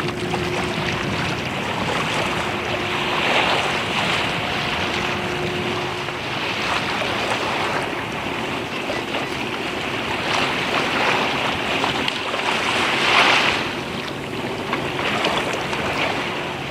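Sea waves washing against a harbour quay, swelling and ebbing in surges, with wind buffeting the microphone.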